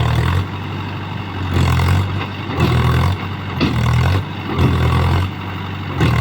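Mahindra Yuvo 415 DI tractor's diesel engine labouring under load, swelling and dropping in loudness about once a second as the tractor strains to pull a heavily loaded trolley out of deep mud.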